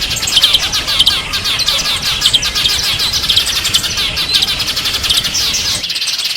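Small songbirds chirping and twittering in a dense, rapid chatter of high notes. A low background rumble drops out suddenly near the end while the chirping goes on.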